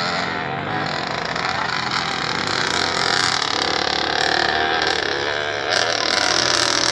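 Dirt bike engines running on a motocross track, the engine pitch rising and falling as the bikes ride around.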